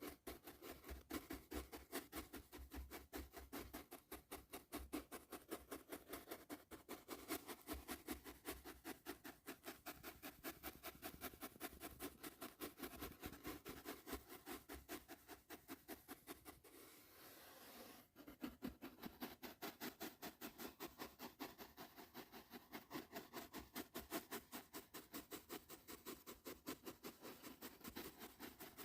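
Soft brush bristles stroking across the microphone in a fast, even rhythm, with a brief softer pause about two-thirds of the way through.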